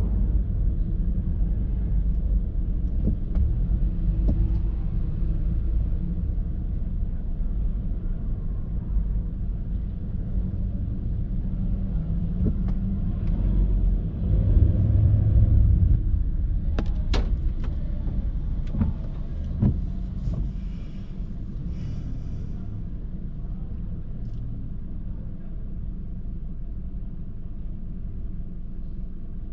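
Street traffic: a steady low rumble of passing cars, with one vehicle passing louder about halfway through, followed by a few short clicks.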